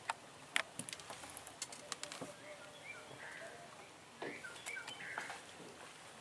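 Birds chirping with short calls several times in the middle, over scattered light clicks and knocks of fishing tackle being handled in a small boat.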